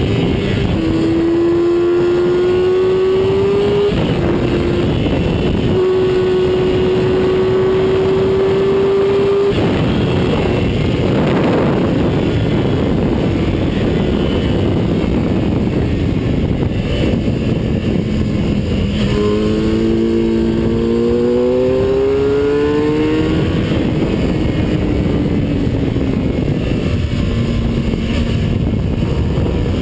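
Onboard sound of a vehicle lapping a race track: the engine runs at high revs under heavy wind rush on the camera. The engine note holds steady, drops away about ten seconds in, then climbs again in rising sweeps about two-thirds of the way through as the vehicle accelerates.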